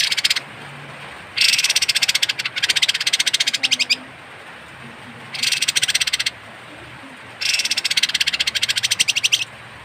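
A kapas tembak (pied triller) giving harsh, rapid rattling calls in repeated bursts. There is a short burst at the very start, then a long one from about a second and a half in, a shorter one past the middle and another long one near the end.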